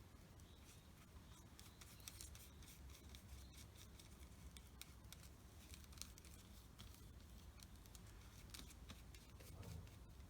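Faint, intermittent scratching and small ticks of a paintbrush working white paint onto paper, over a low steady room hum.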